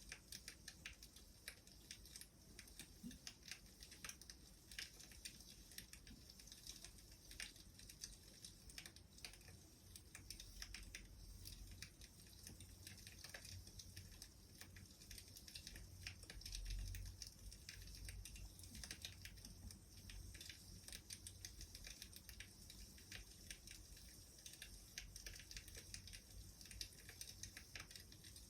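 Crackling wood fire: a dense, irregular run of small pops and crackles over a soft hiss.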